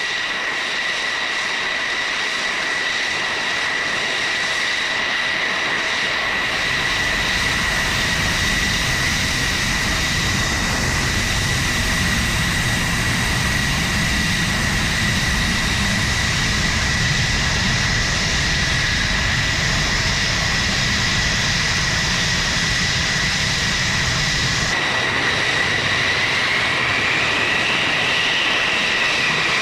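F-16 fighter jet's engine running with a steady high turbine whine over a rushing hiss. A deep rumble comes in about six seconds in and drops away about five seconds before the end, and near the end the whine briefly rises and falls in pitch.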